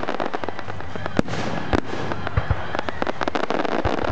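Fireworks display: a rapid, continuous run of bangs and crackling, with one especially sharp bang about a second in.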